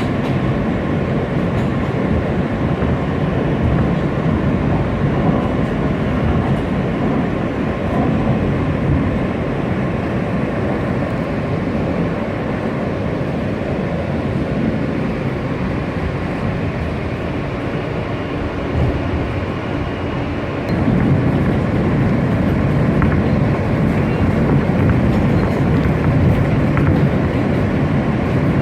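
New York City subway train running, heard from inside the car: a steady rumble of wheels and motors that gets louder about three-quarters of the way through.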